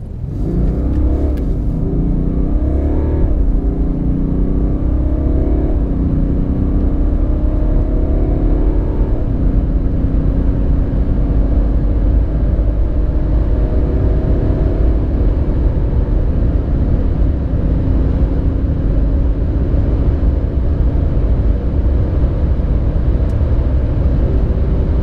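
BMW G30 5 Series diesel sedan accelerating hard from a standstill. The engine note rises and drops back with each upshift several times in the first nine seconds or so, then climbs slowly and steadily over a deep rumble.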